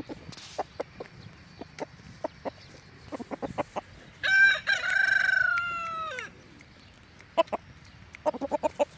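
Chickens clucking in short scattered notes, and a rooster crowing once, one long call of about two seconds starting about four seconds in that falls slightly in pitch at the end.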